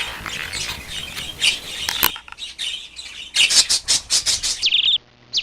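Small birds chirping and squawking in short, quick calls. About two seconds in, the sound cuts abruptly to a cleaner stretch of rapid chirps, ending in one short pitched chirp near the end.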